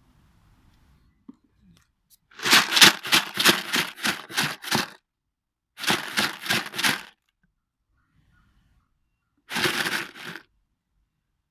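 Three bursts of fast rhythmic crinkling and crackling, about seven strokes a second: a long one of almost three seconds, a shorter one, then a short one near the end.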